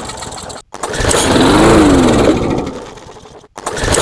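Briggs & Stratton 5 hp lawnmower engine firing on starting spray. It catches, revs up and then dies away, with a dead gap before it fires again about every three seconds. It starts and dies: it runs only briefly on the spray.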